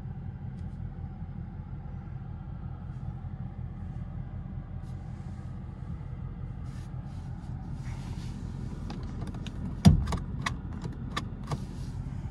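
Ford Mustang GT's 5.0 V8 idling steadily, heard from inside the cabin. Faint clicks start about halfway through, then a loud thump about ten seconds in, followed by more scattered clicks and knocks.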